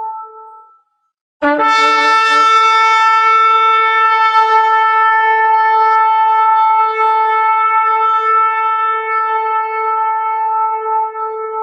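Shofar blown in long blasts. One note trails off just after the start. After about a second's silence a new blast begins with a short rough, lower onset, then settles into one long, steady note with a bright, reedy tone.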